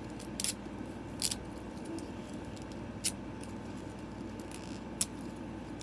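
Plastic toy packaging being handled and opened: a few short, sharp clicks and crinkles spaced a second or two apart over a steady background hum.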